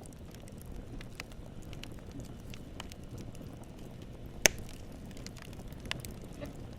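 Campfire burning: a low rumble of flames with scattered small crackles and snaps of burning wood, one sharp loud pop about four and a half seconds in and a smaller one near six seconds.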